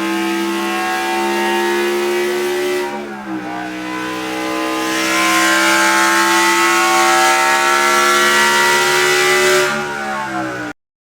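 Bugatti Tourbillon's V16 engine running hard and revving. Its pitch drops suddenly about three seconds in, then climbs steadily and gets louder, before the sound cuts off abruptly near the end.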